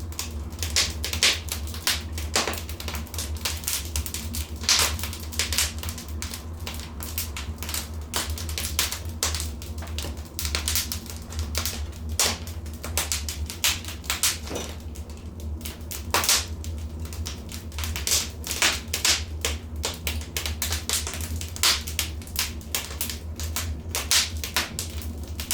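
Wood fire in a fireplace crackling and popping: quick irregular snaps, several a second, over a steady low rumble.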